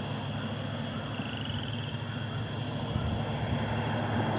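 A steady, distant engine drone, low and even.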